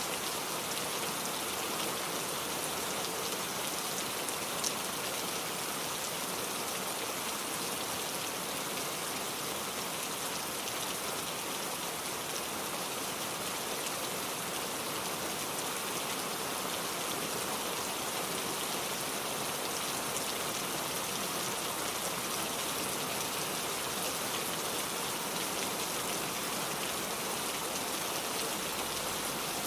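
Steady rainfall, an even hiss of drops with no let-up, with one faint click about four and a half seconds in.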